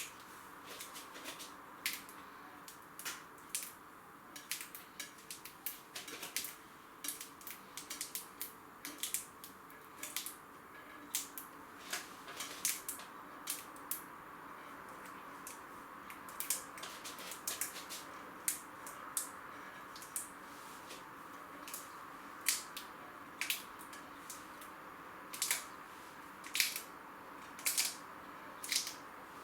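Vinyl wheel stickers and their backing paper being handled and worked by hand: irregular sharp crackles and ticks, one or two a second, over a faint steady hum.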